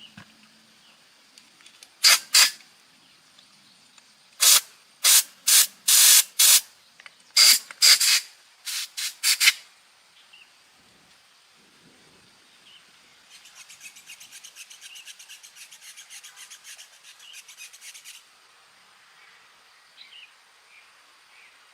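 Hand filing: more than a dozen loud, separate rasping strokes in clusters over the first half, then a quicker, quieter run of short rubbing strokes for about five seconds later on.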